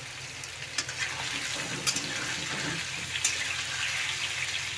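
Raw potato wedges frying in hot oil in a kadhai: a steady sizzle with a few sharp pops of spattering oil.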